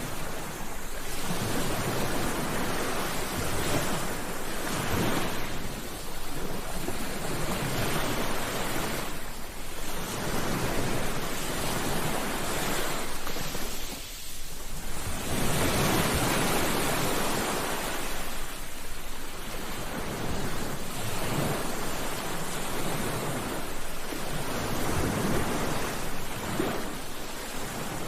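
Ocean waves breaking and washing on a beach, a steady surf hiss that swells and ebbs every few seconds.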